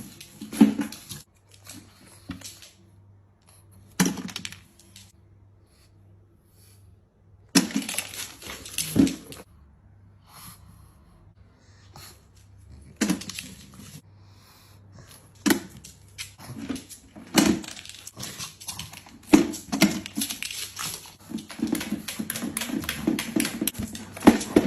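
A dog making short, separate bursts of sound, some seconds apart.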